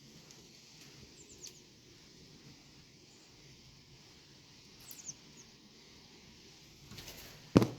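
A small pet bird giving a few faint, short, high chirps that fall in pitch, with a loud single thump near the end.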